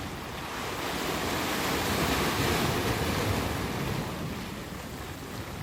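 Sea waves washing, a steady rush that swells about a second or two in and eases off toward the end.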